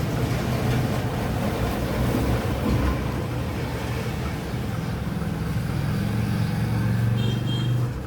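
A motor humming steadily, with a low even drone.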